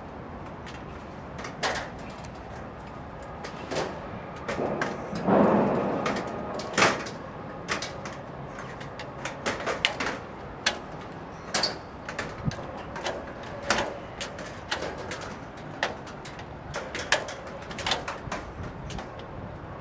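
Sheet-metal work on a chimney: irregular sharp knocks and taps, roughly one or two a second, with a longer scraping noise about five seconds in.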